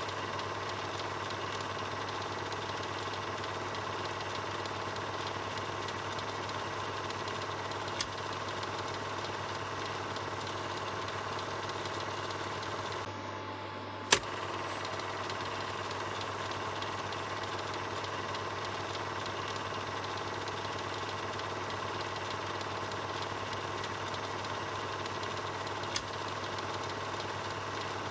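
Film projector running: a steady motor whir over a low hum. Now and then there is a sharp click; the loudest comes about halfway through, just after a brief dip.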